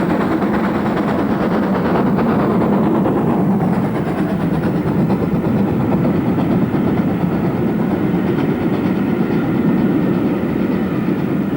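Great Western steam locomotive hauling a passenger train past, its rapid exhaust beats blending with the rumble and clatter of wheels on the rails. The sound stays steady and eases off slightly near the end.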